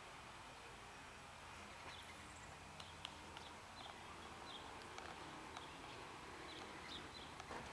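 Faint outdoor background hiss with short, high bird chirps repeating irregularly, about every half second.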